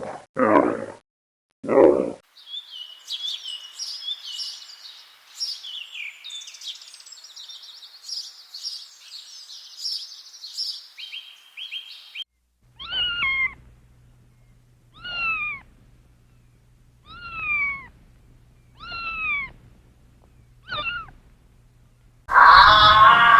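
A cat meowing five times, each meow a short falling cry about two seconds apart. Before it comes a long stretch of dense high-pitched chirping, a few loud low grunts open the stretch, and music starts near the end.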